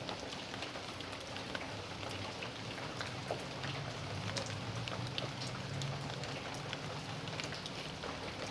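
Steady rain falling on a backyard: an even hiss dotted with many separate, close drops ticking on surfaces.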